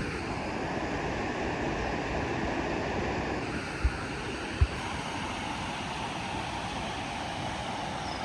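Waterfall's water rushing in a steady, even wash of noise, with two brief low thumps a little after the middle.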